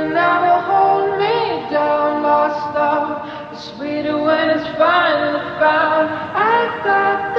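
Background song: a sung vocal melody with wavering held notes and little instrumental backing.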